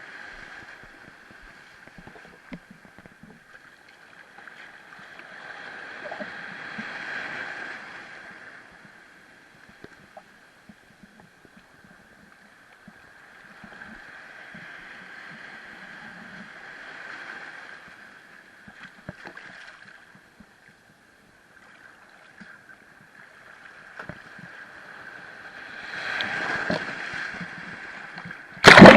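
Muffled sea-wave noise heard from a camera in rough water, swelling and fading roughly every ten seconds as waves surge past, with scattered small clicks and knocks. A sudden loud splash-like burst comes right at the end.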